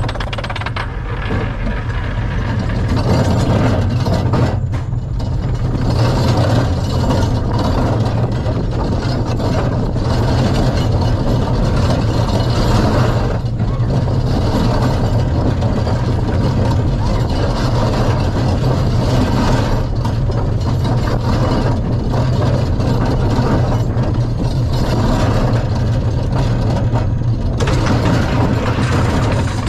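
Steady mechanical rumble and clatter of the Flying Turns wooden bobsled coaster's train and ride machinery, a constant low drone that runs on with little change.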